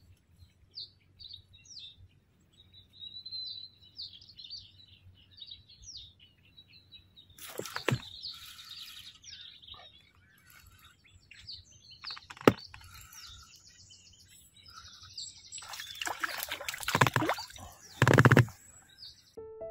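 Small birds chirping over and over in short, high calls. From about halfway on, louder rustling noises come in, with one sharp knock that is the loudest sound and a loud burst of noise near the end.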